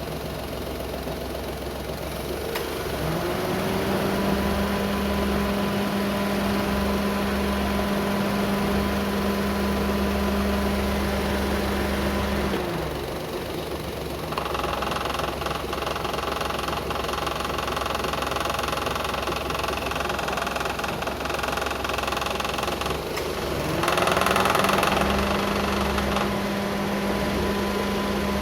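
Car engine running with a metallic rattle, like something knocking about in metal, from a loose exhaust heat shield. A steady hum comes in a few seconds in, drops out about halfway and returns near the end.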